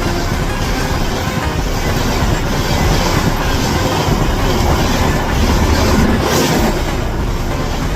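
Indian Railways express passenger train rolling past close by: a loud, steady rumble of coaches with wheels clattering over the rail joints.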